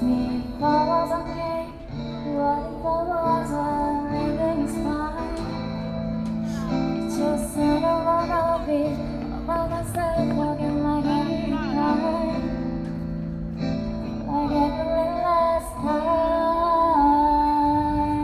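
A woman singing live over band accompaniment, with a melodic sung line over steady bass notes and light guitar.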